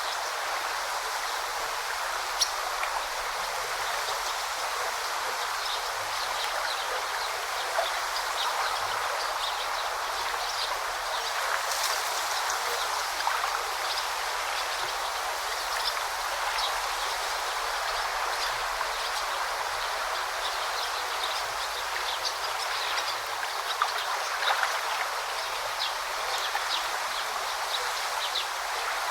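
Forest stream babbling steadily, with short high chirps of birds scattered throughout.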